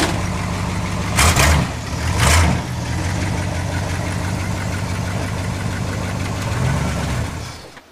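Dodge truck's V10 engine running steadily, with two short loud surges about a second apart early on. The sound falls away near the end.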